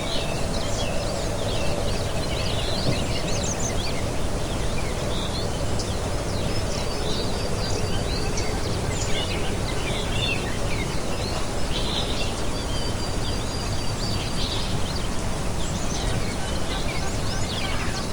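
Several small birds chirping and twittering in quick, short calls throughout, over a steady background hiss.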